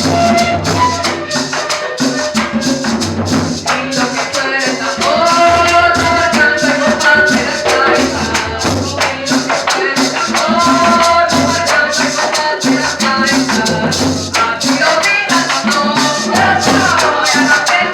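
Live cumbia band playing: a shaker keeps a fast, even rhythm over a pulsing bass line, with a held melody line coming in a few times.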